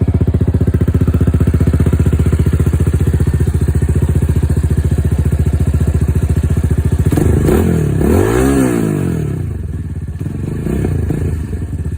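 Brand-new fuel-injected Vitacci GTX 250 EFI motorcycle engine idling with an even beat. About seven seconds in it is revved, the pitch rising and falling back to idle over a couple of seconds, with a smaller blip near the end.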